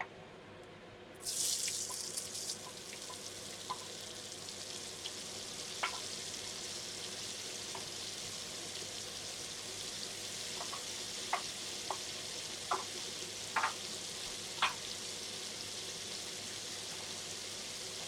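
Onions, garlic and chopped ginger sizzling in butter and oil in a frying pan. A loud sizzle starts suddenly about a second in, then settles to a steady sizzle with a few sharp pops and crackles.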